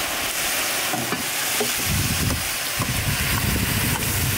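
Olives frying in hot oil in a large steel pan, with a steady sizzle, while a long metal spatula stirs through them. A low rumble comes in about two seconds in.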